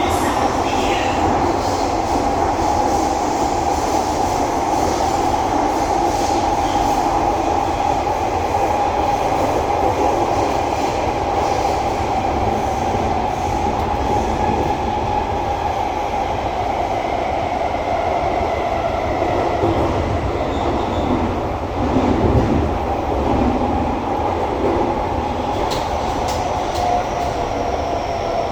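Singapore MRT North-South Line train running underground, heard from inside the carriage: a steady rumble of wheels on rail under a constant hum. About three-quarters of the way through, the sound swells briefly louder.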